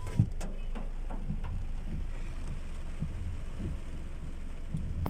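Heavy rain falling, with scattered drops tapping sharply over a steady low rumble.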